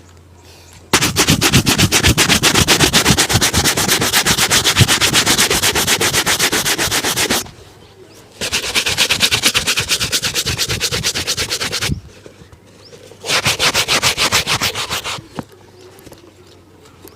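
A shoe being buffed with fast, even back-and-forth strokes in three bouts: a long first run, a shorter second and a brief third, with short pauses between them.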